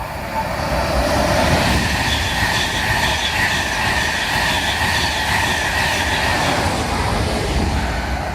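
Virgin Trains East Coast express train running along the main line past the station platform. Its noise swells about a second in and eases off near the end, with a steady high-pitched wheel squeal through the middle.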